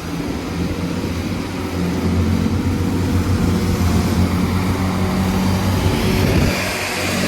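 Class 166 diesel multiple unit pulling away from the platform, its diesel engines under load with a steady low drone. About six and a half seconds in, the low note drops and a higher hiss swells.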